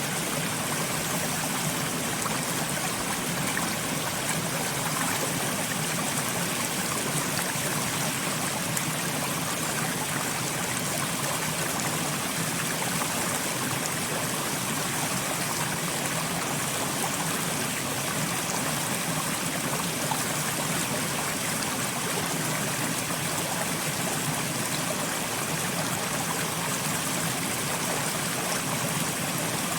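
A steady, even rush of water, unchanging in level, with a hissing top and little low rumble.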